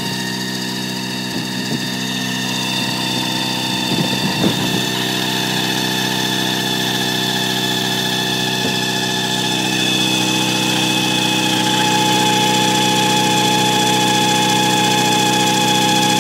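Mazda RX-7 rotary engine idling steadily with a high, steady squeaky whine from the alternator, which the owner says keeps eating belts and needs replacing. A few brief knocks come about four seconds in.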